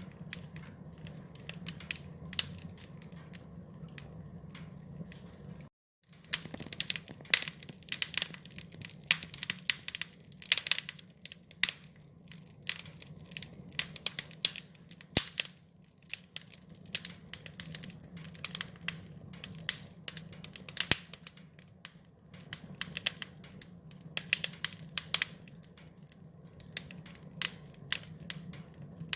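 Wood fire crackling: irregular sharp pops and snaps over a steady low rumble. The sound cuts out briefly about six seconds in, and the crackling comes busier after it.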